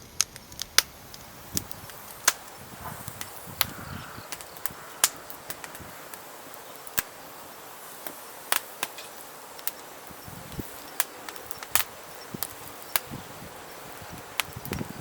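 Firewood burning in a fire pit, crackling with irregular sharp pops over a steady soft hiss.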